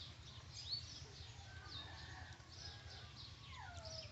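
Faint bird chirps from the surroundings: scattered short, quick high notes, with a longer call that slides down in pitch near the end, over a low steady hum.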